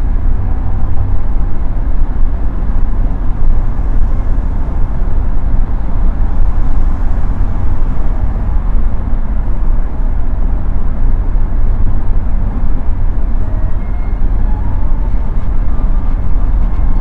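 BMW E30 316i wagon's four-cylinder engine and road noise heard from inside the cabin while driving: a steady low rumble with tyre hiss.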